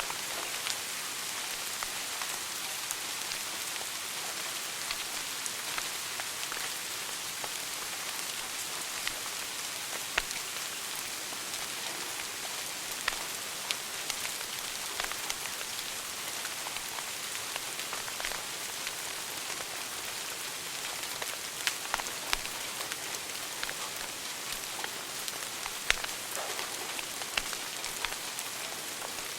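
Wood fire burning in a fireplace: a steady hiss with scattered sharp crackles and pops, a few louder snaps standing out.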